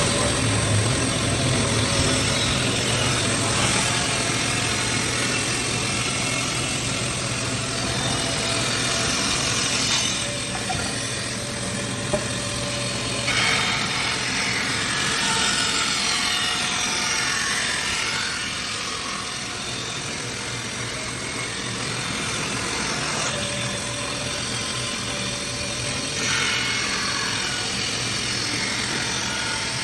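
A power saw running steadily with a hum and cutting wood slats, the sound shifting as each cut begins and ends.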